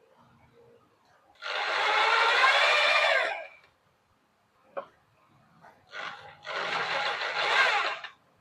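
A small high-speed electric power tool runs in two bursts of about two seconds each, its pitch wavering as it bites, with a short knock between them.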